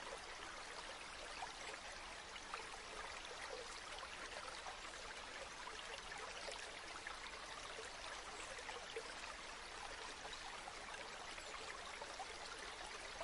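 River water flowing steadily, an even rush of water with small splashing detail.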